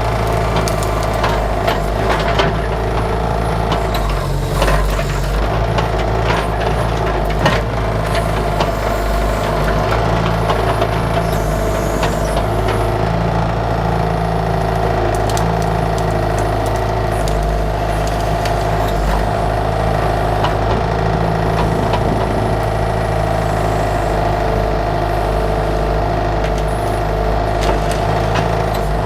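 Bobcat 331 mini excavator's diesel engine running steadily while digging, with scattered knocks and clatter from the bucket at work.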